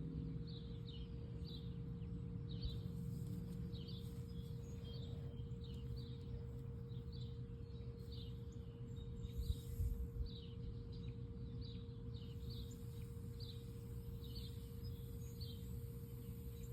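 Baby bird chirping, short high peeps repeating about twice a second, over a faint steady hum.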